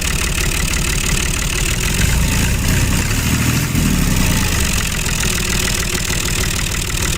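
Tractor engine idling, a steady rapid chugging with a heavier low rumble around the middle.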